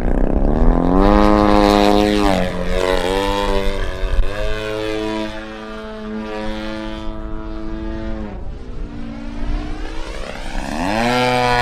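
Radio-controlled model propeller plane's motor and propeller, its pitch gliding up and down as the throttle and the plane's passes change. It rises about a second in, holds fairly steady, drops away past the middle and climbs sharply again near the end.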